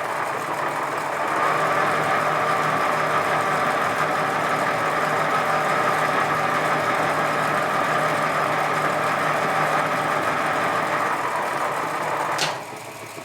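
Edgwick lathe running in reverse under power, its gear train and leadscrew driving the carriage back, a steady mechanical whine. It stops with a click near the end.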